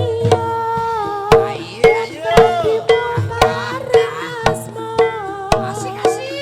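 Live Javanese barongan ensemble music: frequent sharp hand-drum strokes over ringing gong-chime tones, with a wavering, sliding melody line above them.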